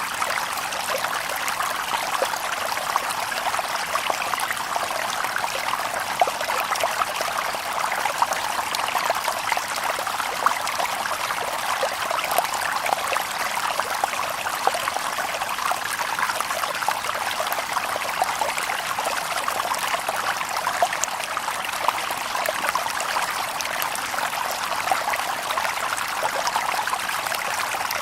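Shallow stream babbling over stones: a steady, busy rush of water, full of small splashes and trickles.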